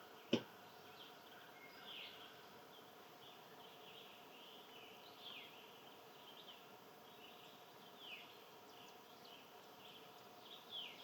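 Faint wild songbird calls, short chirps sliding down in pitch repeated every second or two, over a low steady hum. A single sharp click shortly after the start is the loudest sound.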